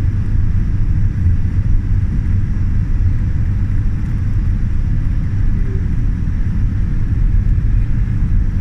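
Steady low rumble of a Boeing 787 Dreamliner's cabin heard from a passenger seat: engine and airflow noise, even throughout with no distinct events.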